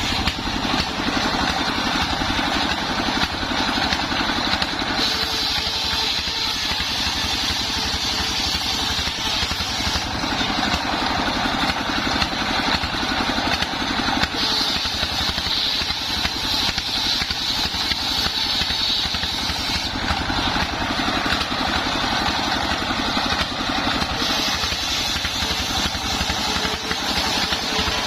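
Engine-driven, home-built circular saw rig running steadily while sawing sengon wood into beams. A high whine strengthens and fades every few seconds.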